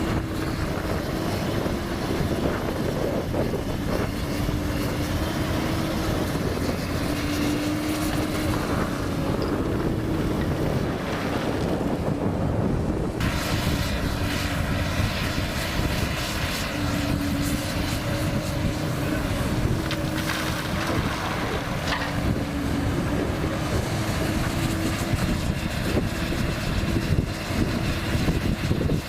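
Komatsu PC200 hydraulic excavator's diesel engine running steadily under working load, its drone wavering slightly in pitch as the hydraulics are worked. A hiss in the upper range joins about halfway through.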